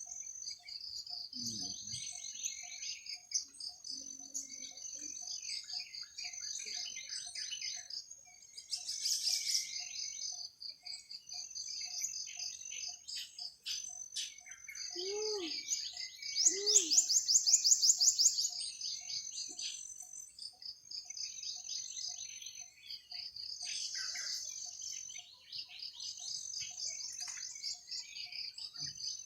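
Night forest ambience: insects trill in a steady, high-pitched pulsing chorus while birds chirp over it. Two short low calls come about 15 seconds in. Just after them comes the loudest sound, a rapid buzzy trill lasting about two seconds.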